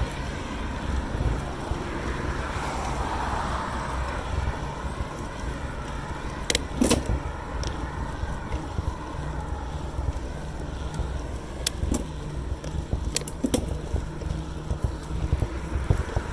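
Riding noise from a bicycle on a road: a steady low rumble of wind on the microphone and tyres, with several sharp clicks or rattles from the bike, two close together about halfway through and more near the end.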